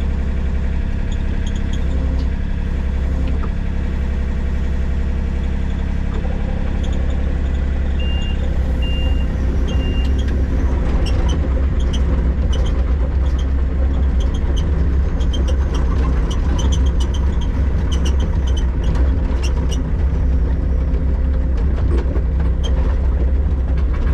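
John Deere 35D compact excavator's diesel engine running steadily. Three short beeps sound about eight seconds in, then the tracks start moving, with clanking and squeaks from the undercarriage.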